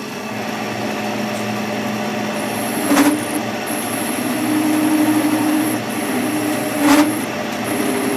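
A workshop machine running steadily with a constant hum and a high thin whine that cuts in and out, with two sharp knocks, about three and seven seconds in.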